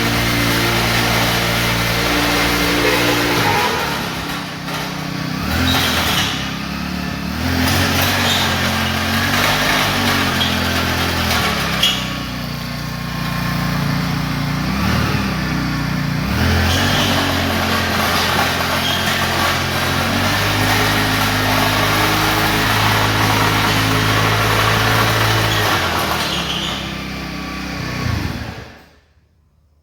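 Small engine of a power weeder (power tiller) running loudly, its speed rising and falling several times as it works, then stopping abruptly near the end.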